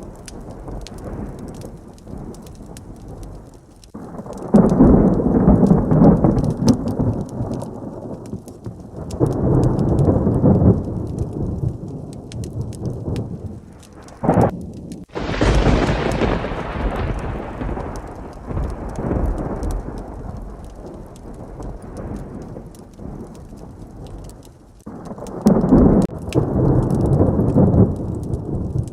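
Heavy rain falling steadily through repeated thunder. Low rolling rumbles come about five and ten seconds in. A sharp crack about fourteen seconds in is followed by a loud close thunderclap that fades slowly over several seconds, and another rumble comes near the end.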